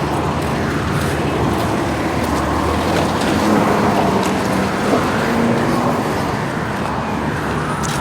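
Road traffic noise: a steady rumble of motor vehicles, a little louder around the middle.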